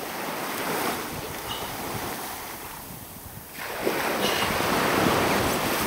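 Ocean waves washing in, with wind on the microphone; the wash eases about halfway through and then swells louder.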